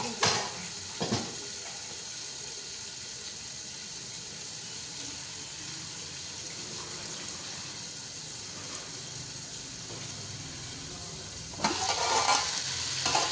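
Chicken pieces, tomatoes and ginger-garlic paste sizzling in hot oil and onions under the lid of an aluminium pot, a steady hiss, with two short knocks near the start. Near the end the lid is lifted and the sizzling gets louder.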